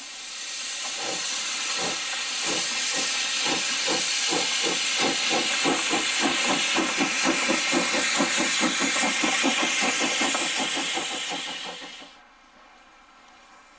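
Steam locomotive getting under way: a loud hiss of steam with exhaust beats that start about a second in and gradually quicken, then cut off suddenly near the end.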